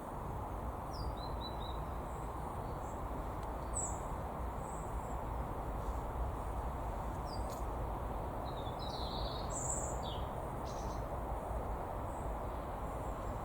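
Scattered short, high bird chirps, a few isolated ones and then a busier cluster about two-thirds of the way through, over a steady low background rumble.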